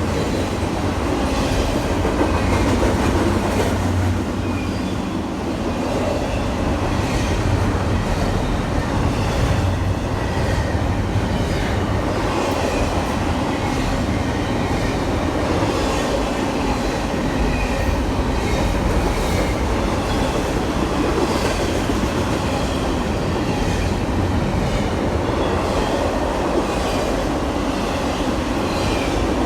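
A train rolling steadily past on the rails, with a continuous run of wheels clicking over the track.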